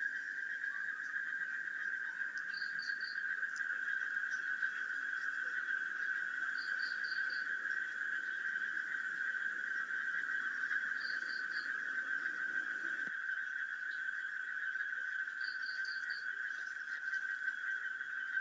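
A steady, high animal chorus, with a short group of three or four quick high pips repeating about every four seconds.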